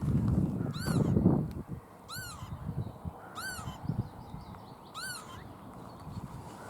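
A ground-nesting bird giving its alarm call, five short, ringing, arched notes about one every second and a half, agitated by a person near its scrape nest. A low rustle of movement sits under the first call or two.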